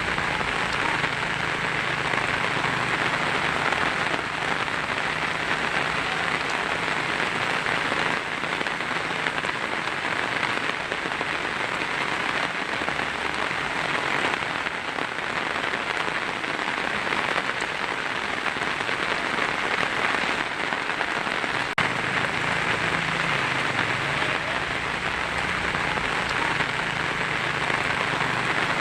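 Heavy rain drumming steadily on a tin roof.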